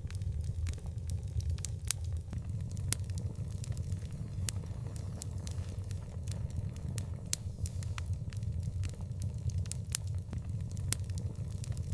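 Wood fire burning with irregular sharp crackles and pops, several a second, over a steady low rumble of the flames.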